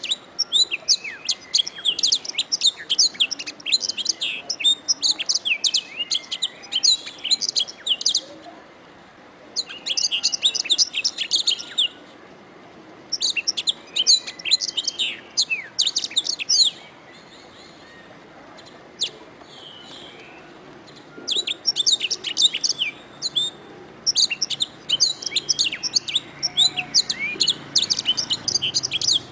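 Domestic canary singing in long phrases of rapid, high trills and chirps, broken by pauses of a second to a few seconds.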